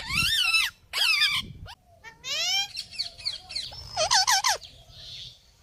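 Parrot calling: a series of about five short, loud calls, some arching, some rising and one quickly warbling, with short gaps between them.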